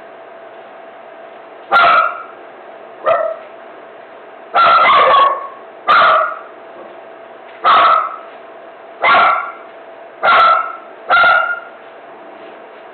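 A dog barking repeatedly: eight loud barks roughly a second or so apart, one of them in the middle drawn out longer than the others.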